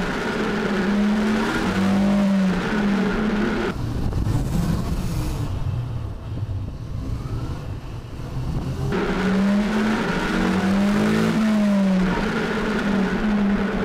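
Motorcycle engine running at road speed, its note wavering slightly with the throttle, over wind noise. For several seconds in the middle the engine note and the higher sound fall away, leaving a low rumble, before it comes back.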